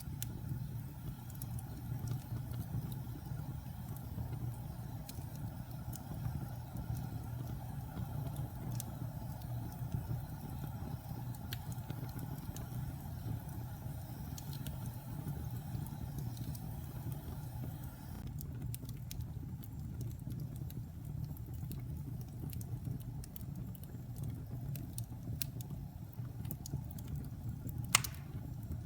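Wood fire crackling in a fireplace: a steady low rumble with scattered small crackles, and one sharp, loud pop near the end.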